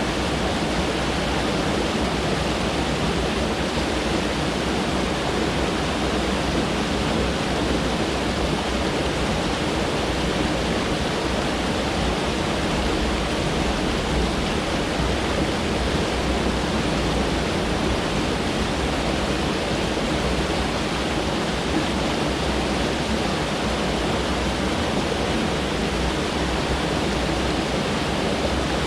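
Mountain stream rushing over rocks, a steady full-bodied rush of water with no breaks.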